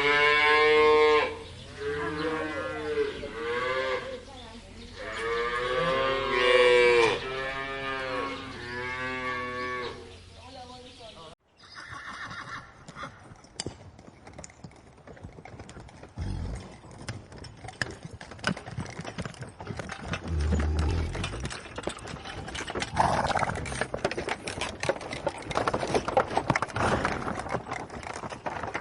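Cattle mooing: about five long, wavering calls over the first eleven seconds. After an abrupt cut comes a different, noisier sound of many small clicks and rustling with a few low thumps.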